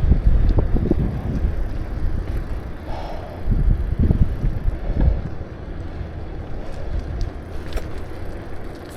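A bicycle riding along a path, with wind buffeting the microphone over low road rumble and scattered small rattles. It is louder for the first half and eases off a little after about five seconds.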